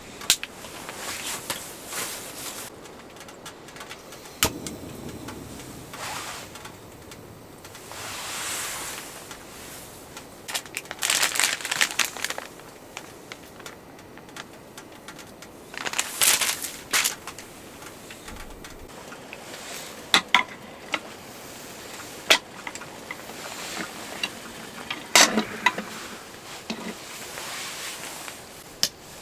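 Scattered clinks, clicks and rustles of cookware and food being handled, coming at irregular moments with quieter gaps between them.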